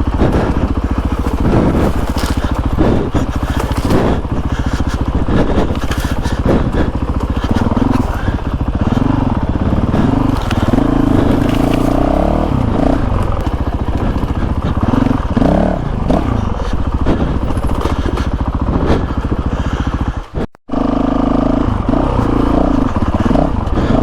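Honda CRF450RL single-cylinder four-stroke dirt bike engine revving up and down while riding a rough dirt trail, with stones clattering and knocking under the bike. The sound drops out for a moment near the end.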